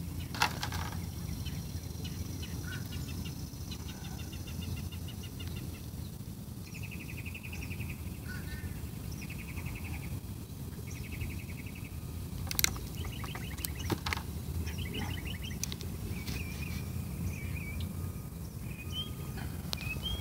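Birds chirping and singing short, rapid trills, one after another, over a steady low outdoor rumble, with a few sharp clicks standing out.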